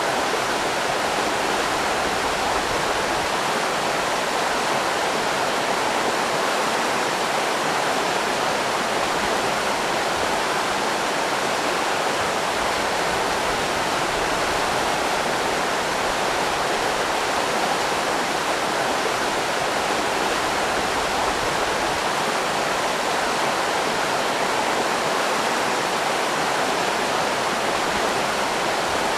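River rapids: fast water rushing steadily over rocks, a constant even roar.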